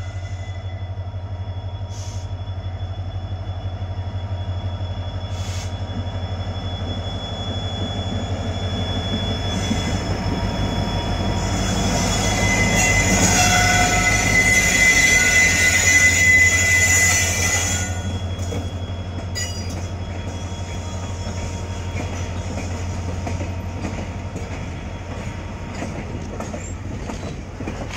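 Indian Railways diesel locomotive hauling a container freight train past at close range. The engine drone grows louder to a peak about halfway through as the locomotive goes by, with a high wheel squeal. Then the container wagons roll past with clattering wheels.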